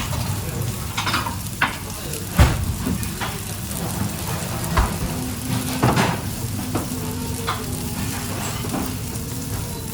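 Food sizzling in a pan while it is stirred, with the utensil knocking and scraping against the pan about once a second.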